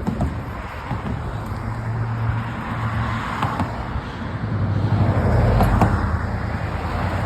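Wind and road rumble on a phone microphone during a bicycle ride, a steady low noise that swells about five seconds in.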